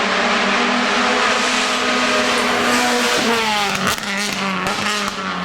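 Race car engine at high revs on a hill climb, holding a steady note, then the pitch falls about three seconds in.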